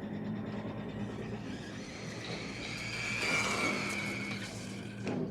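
RLAARLO AM-X12 brushless RC buggy driving on wet ground, its motor's high whine swelling about two seconds in and fading again near the end, over a steady hiss.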